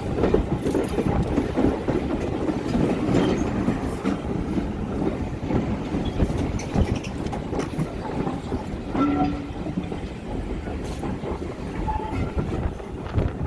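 Heritage railway passenger train running on the line, a steady rumble with wheels clattering over the rail joints.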